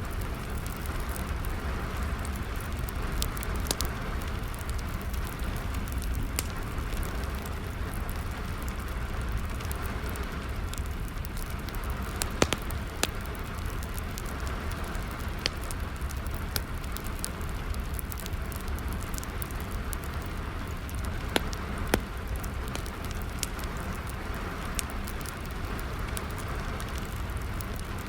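Steady rain falling together with a crackling wood fire, its sharp pops scattered irregularly, a few louder ones about halfway through and again about three-quarters in.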